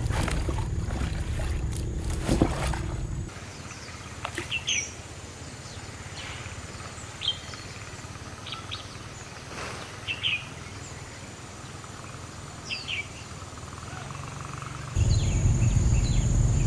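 Short, high bird chirps every second or two, over a low outdoor background. A louder low rumbling noise fills the first three seconds and comes back near the end.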